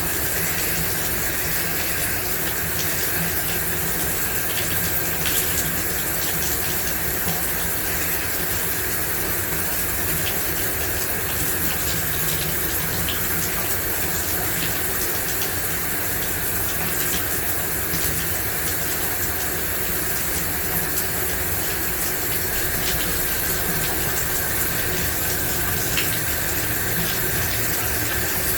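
Shower running steadily, water spraying and splashing in an even rush with small scattered drips and spatters.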